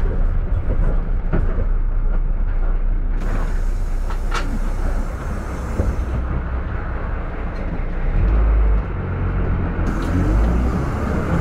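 Minibus and road traffic rumbling close by, with spells of louder hiss about three seconds in and again near the end.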